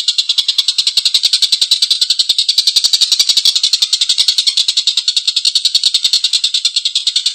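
Tengkek buto kingfisher giving its long, harsh cackling call: a fast, even rattle of notes, more than ten a second, running without a break.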